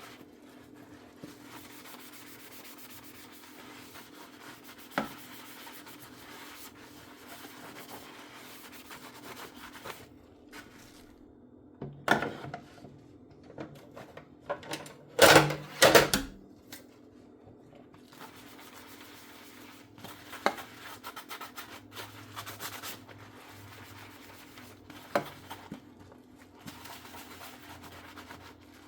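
Dishes being hand-washed in a sink: a sponge scrubbing steadily, stopping briefly and then clattering dishes loudly twice midway, with a few single knocks of dishware and then more scrubbing.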